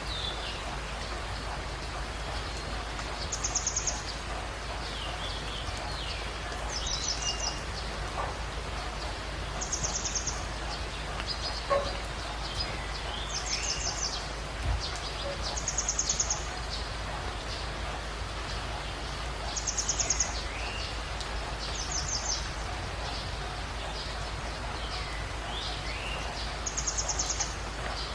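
Birds calling in a jungle dawn chorus: one bird repeats a short, very high trill every two to four seconds, with other birds giving lower whistled notes between, over a steady hiss like light rain.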